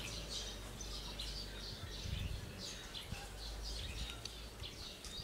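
Small birds chirping: a continual run of short, high, falling chirps, several a second, over a low steady rumble.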